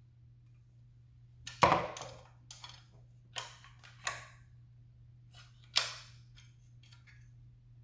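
A handful of sharp clicks and knocks, spaced irregularly about a second apart, the loudest about one and a half seconds in, over a faint steady hum.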